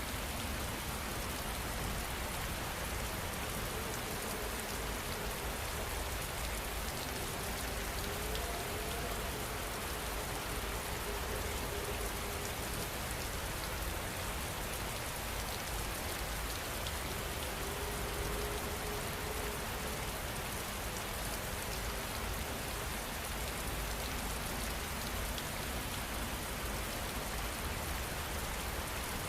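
Steady rain falling, an even unbroken hiss of raindrops.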